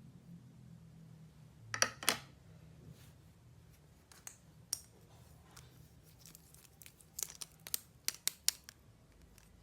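Plastic toy pieces and packaging being handled: scattered sharp clicks and crackles, two louder ones about two seconds in and a quick run of clicks near the end.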